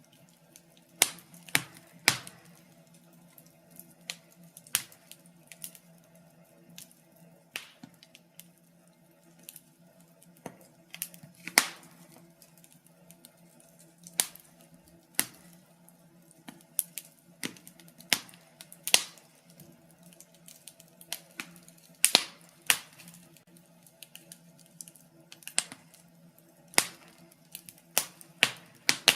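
Wood fire in a fireplace crackling: irregular sharp snaps and pops, a few of them much louder, over a faint steady hum.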